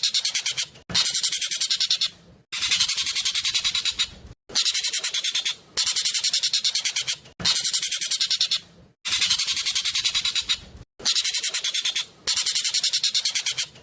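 Asian glossy starling (jovin) singing loudly: shrill phrases of fast, tightly packed chattering notes, each about a second and a half long, repeated over and over with short pauses between.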